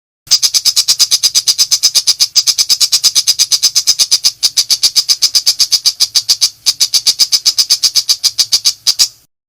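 Long-tailed shrike (pentet macan) giving its rapid 'nembak' burst: a loud, fast rattle of sharp high notes, about eight a second, with two brief breaks, stopping abruptly after some nine seconds.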